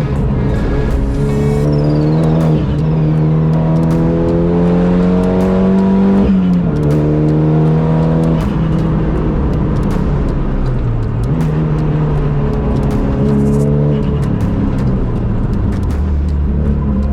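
Renault Clio track car with a swapped-in Megane RS turbocharged four-cylinder engine, accelerating hard through the gears. The engine note climbs steadily, then drops sharply at an upshift about three seconds in and again about six seconds in, before easing off and picking up again.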